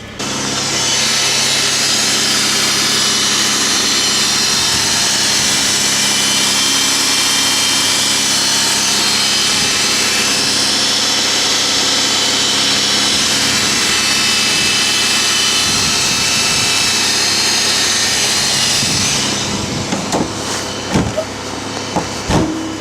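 A freshly cold-started car engine idling, with a loud steady rushing noise over it that switches on right at the start and cuts off about 19 seconds in. A few clicks follow near the end.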